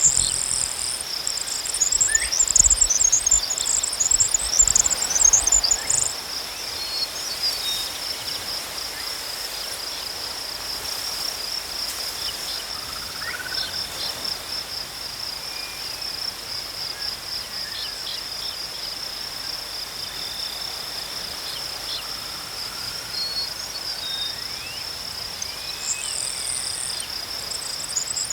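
Crickets chirping in a steady, fast-pulsing trill. A second, higher and louder chirping chorus joins in for the first few seconds and again near the end.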